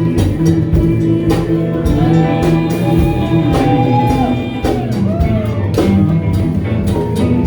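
A live band playing, with guitar and a drum kit keeping a steady beat under a gliding lead melody line.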